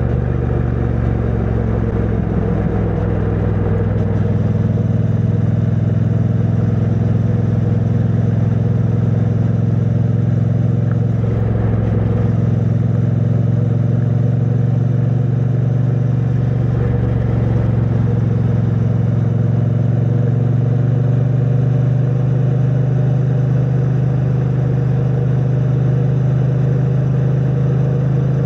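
2022 Triumph Bonneville T100's 900 cc parallel-twin engine through its stock exhaust, running at a steady cruise on the road. The pitch shifts slightly a few seconds in and rises gently near the end. It is heard from a mic stuffed in the rider's backpack.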